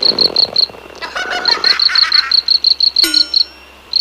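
Cricket chirping in rapid high pulses, about six a second, with frog croaks over it in the first half. About three seconds in there is a sharp click and a brief tone, and the chirping stops.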